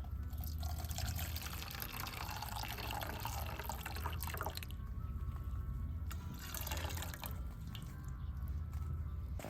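Liquid being poured in a few stretches of a few seconds with short pauses between them, over a steady low rumble.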